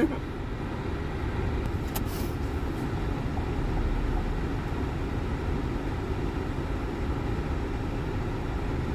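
Car driving over a snow-covered road, heard from inside the cabin: a steady low rumble of engine and tyres, with one faint click about two seconds in.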